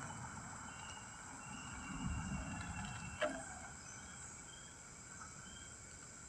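Outdoor insect drone, a steady high-pitched hum, with a low rumble swelling about two seconds in and a single sharp click a little after three seconds.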